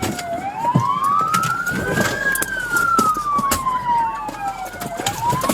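Police car siren in wail mode, its pitch rising and falling slowly: it climbs for about two seconds, falls for over two, and starts climbing again near the end.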